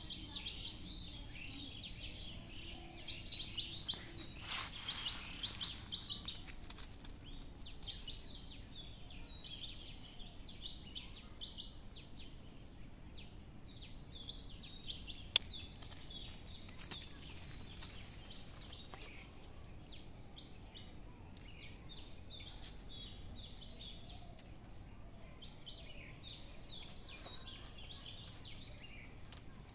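Small birds chirping in quick, high twitters throughout, over a steady low background noise. There is a brief noisy burst about four seconds in and a single sharp click about fifteen seconds in.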